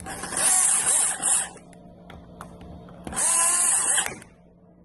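Small cordless power driver running screws in, in two bursts of about a second each, its motor pitch rising and falling as the screws seat.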